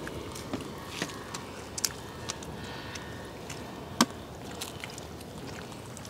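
Men eating fire-roasted mutton off the bone: chewing and biting at bones, heard as irregular sharp clicks and crunches, the loudest about four seconds in.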